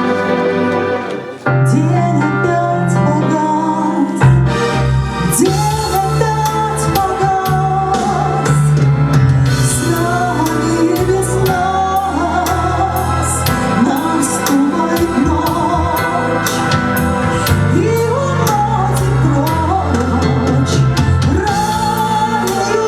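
A woman singing a pop ballad over keyboard and organ accompaniment with bass, with drums and cymbals joining about four seconds in.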